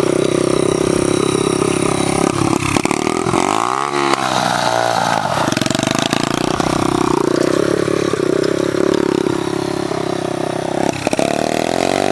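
Small pit bike engine running hard, its revs dipping and picking back up about four seconds in, with a brief drop and recovery near the end.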